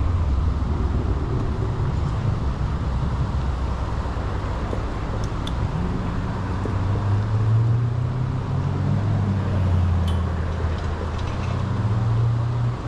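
A motor running steadily with a low hum that shifts up and down in pitch from about halfway through.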